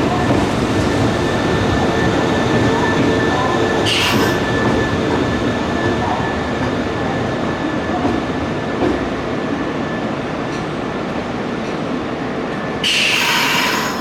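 Nankai electric commuter train running at the station platform: a steady rumble with a thin, steady whine, slowly getting quieter. A short hiss comes about four seconds in, and a louder hiss lasting about a second near the end.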